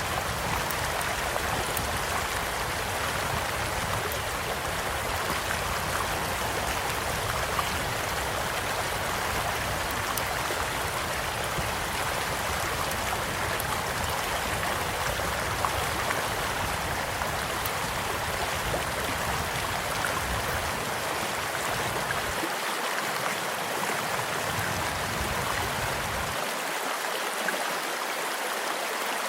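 Small stream flowing steadily, with faint scattered crackles and pops of a wood campfire beside it.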